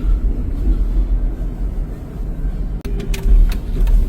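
Car interior road noise while driving: a steady low rumble of engine and tyres, with a few sharp clicks near the end.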